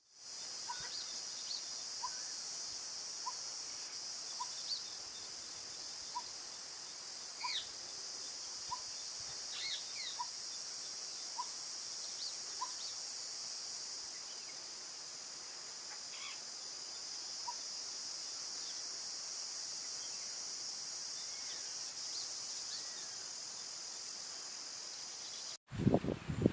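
Jungle ambience: a steady high-pitched insect drone, with a bird repeating one short low note about once a second for the first half and other birds giving scattered chirps and whistles. The audio cuts off abruptly near the end, followed by a few loud low knocks.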